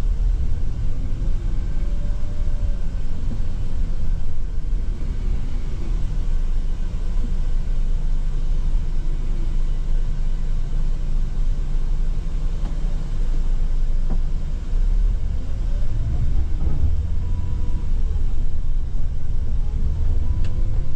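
Scania Metrolink multi-axle coach running, a steady low rumble with a faint whine that rises and falls in pitch.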